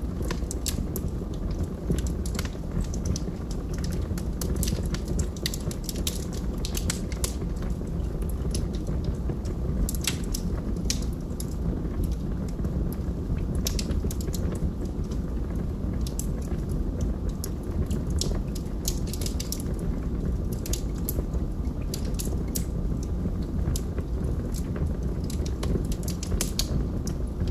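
Wood fire burning in a fireplace: logs crackling with frequent, irregular sharp pops over a steady low rumble of the flames.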